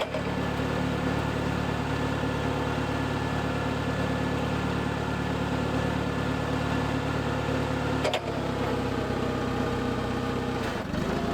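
Clark forklift engine idling steadily, with a short click about eight seconds in; its low running note drops away near the end.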